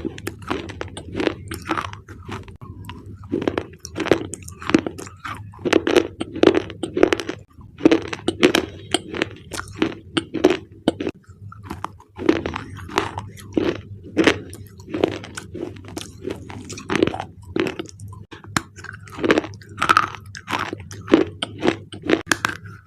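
Thick black slate bars crunching and crackling, close up, in a dense irregular run of sharp crunches, several a second.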